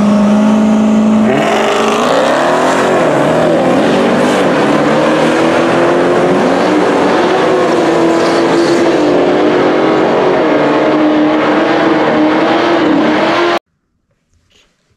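Dodge Charger SRT Hellcat's supercharged V8 held at a steady rev on the drag-strip start line, then launching and pulling hard down the track, the engine note climbing and dropping back with each gear change. The sound cuts off suddenly near the end.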